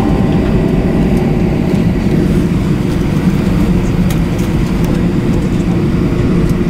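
Steady low rumble with a constant hum inside the cabin of an Airbus A321 on the ground, as its engines and air systems run ahead of taxi.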